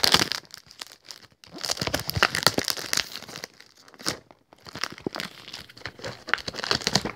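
Packaging of a fireworks assortment pack being torn open and crinkled by hand: irregular runs of crackling and tearing with short pauses between them.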